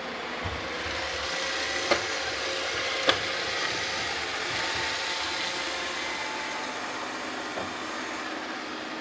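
Roomba robot vacuums running on a floor of confetti, a steady whir that swells a little and eases off, with two sharp clicks about two and three seconds in.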